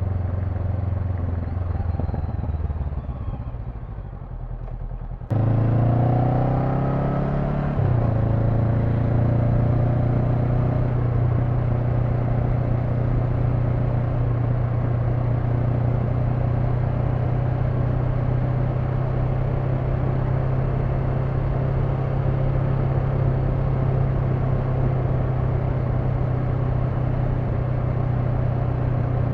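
Honda NX500's 471 cc parallel-twin engine heard while riding. The engine note sinks and fades as the bike slows, then jumps louder about five seconds in. It climbs in pitch under acceleration, shifts up at around eight seconds, and settles into a steady cruise drone over road and wind noise.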